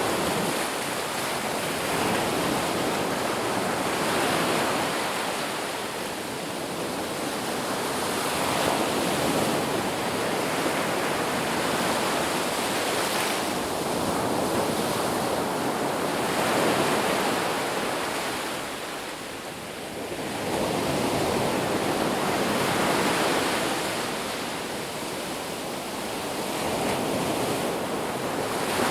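Ocean surf breaking on a beach, a steady wash that swells and eases every few seconds as waves roll in.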